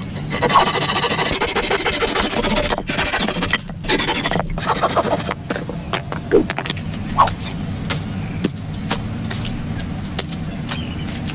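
Rough scraping and rasping with scattered sharp clicks, easing after about five seconds into a steadier, quieter rubbing hiss.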